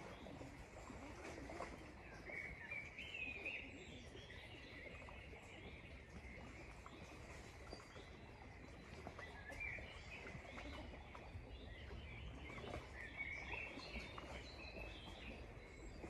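Wild birds chirping and singing faintly in a few scattered short phrases: one about three seconds in, one near ten seconds and a longer run near the end. Underneath runs a steady low rumble.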